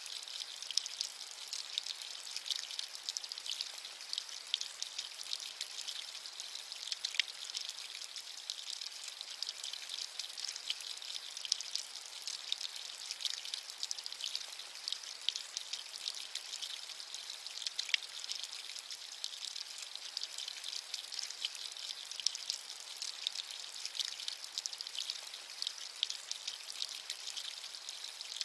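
Steady rain with many distinct drops pattering close by, a bright hiss without thunder or low rumble.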